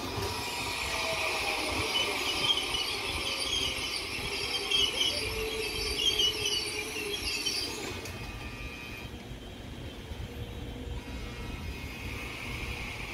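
ITX-Cheongchun electric multiple-unit train running slowly past on the station tracks, its wheels rumbling with high, wavering squeals. The squealing fades about eight seconds in, leaving a lower rolling rumble.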